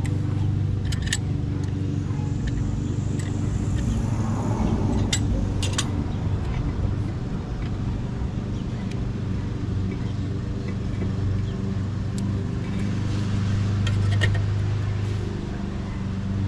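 A steady low hum of a running vehicle engine, with scattered sharp metallic clinks from tools and brake parts being handled.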